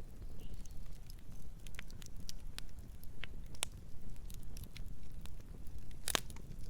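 Campfire burning: a low, steady rumble with scattered sharp crackles and pops from the burning wood, and a louder burst of pops near the end.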